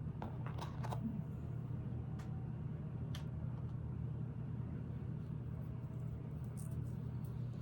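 Small plastic building bricks clicking lightly as they are handled and pressed onto the model, a handful of separate clicks over a steady low hum.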